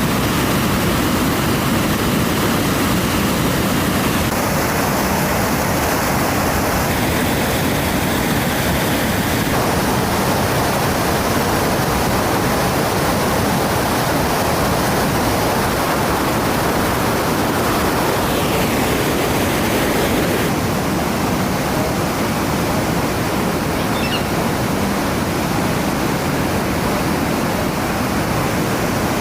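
Floodwater pouring over a weir: a loud, steady rushing of overflowing water.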